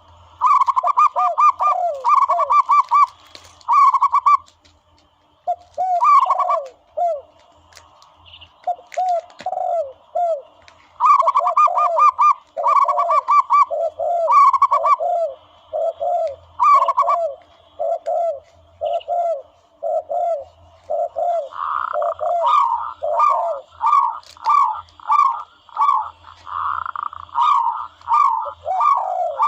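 Doves cooing on a hunting caller track meant to lure zebra doves and turtle doves. Two call series overlap: quick runs of higher coos in bunches, and a steady string of lower, falling coos repeating less than a second apart.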